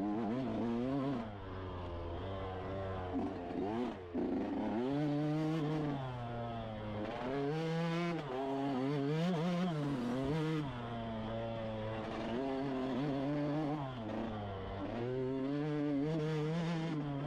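An engine revving up and down over and over, its pitch rising and falling every second or two.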